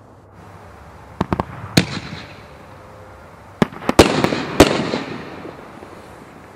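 Consumer aerial fireworks going off: three sharp bangs about a second in, then a louder cluster of bangs around the middle, each trailing off in a fading rush of noise.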